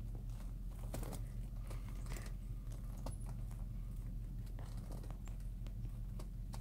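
Steady low hum of an idling car heard inside its cabin, with scattered light clicks and taps.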